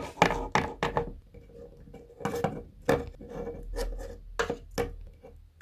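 Irregular light clicks and taps of small toy figures and miniature play dishes being handled and set down on a table, several in quick succession.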